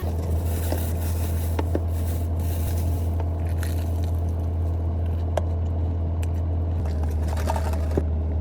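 Steady low rumble inside a car's cabin from the running engine, with a few faint clicks and rustles over it.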